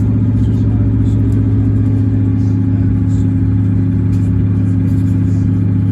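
Underfloor diesel engine of a Class 158 diesel multiple unit running at a steady, even pitch: a constant loud drone.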